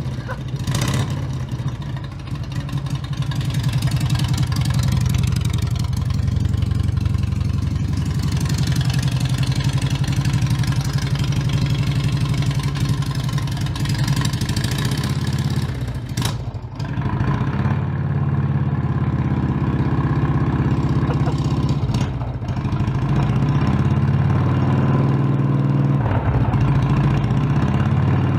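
An engine running steadily with throttle given. It dips briefly about halfway through and again a few seconds later, then runs on a little louder.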